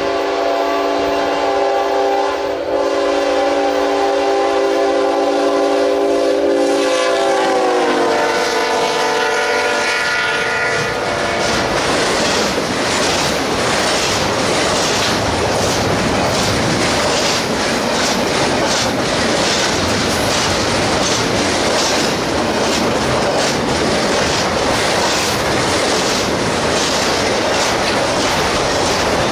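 A locomotive's air horn sounds a steady chord as the train approaches, then drops in pitch as the locomotive passes and falls silent about eleven seconds in. The train's cars then roll by with a steady clickety-clack of wheels over rail joints.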